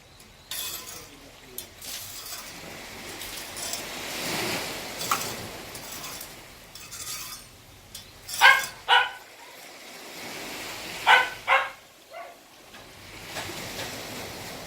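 A dog barking: two pairs of short, sharp barks a couple of seconds apart, past the middle, over a steady rushing background noise.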